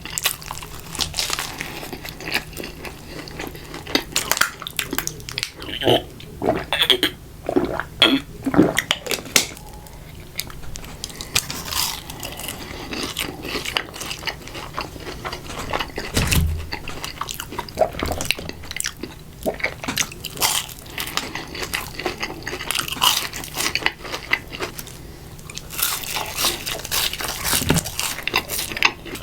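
Close-miked eating of a Burger King Bacon King burger: irregular bites, crunching and chewing.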